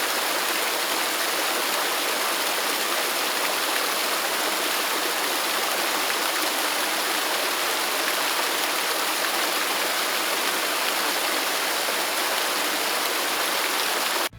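Waterfall pouring steadily: an even, unbroken rush of falling water that cuts off suddenly at the end.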